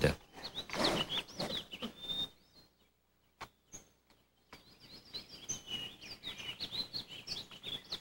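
Small birds chirping in short, quick calls, falling silent for about two seconds midway before chirping again.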